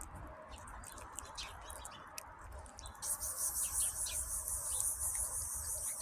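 Kitten eating food, a string of small wet chewing and lapping clicks. About halfway in, a loud steady high-pitched hiss joins and lasts to the end.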